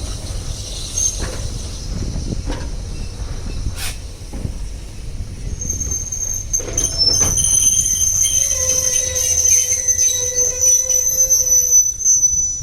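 Railway carriage running with a low rumble and clicks of the wheels over rail joints. About halfway in, the wheels begin a high, steady metallic squeal that stops shortly before the end.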